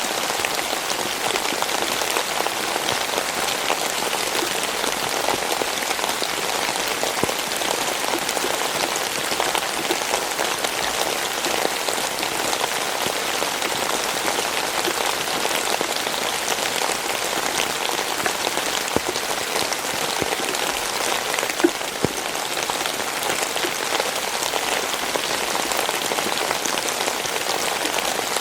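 Rain falling steadily, a dense patter of many small drops, with a few louder single drops about two-thirds of the way through.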